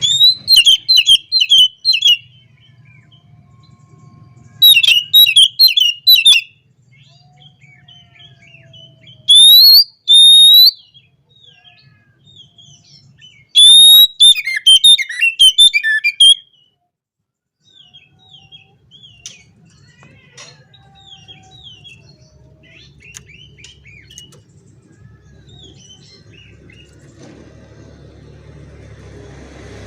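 Oriental magpie-robin singing loud, rapid, varied whistled phrases in four bursts of one to three seconds each, with softer twittering between them and after the last.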